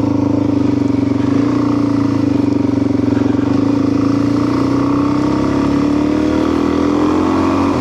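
Motorcycle engine running steadily while riding, its pitch creeping up a little over the last couple of seconds.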